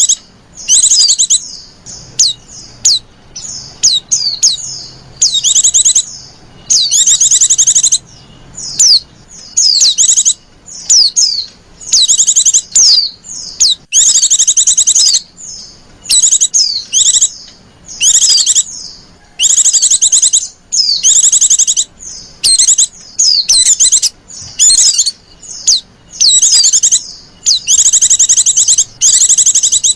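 Female white-eye (pleci) calling: loud, high-pitched bursts of rapid chattering notes, roughly one burst a second with brief gaps between them. It is the female's call used to lure male white-eyes.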